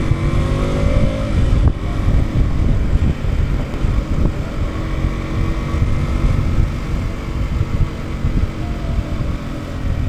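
KTM RC200's single-cylinder engine accelerating, its pitch rising over the first second and a half, then running on steadily after a brief break, over a heavy low rumble of wind and road noise.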